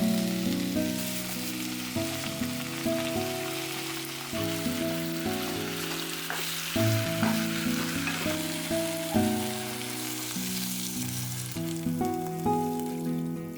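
Food sizzling and frying in a pan, a steady hiss, with soft background music of sustained notes over it.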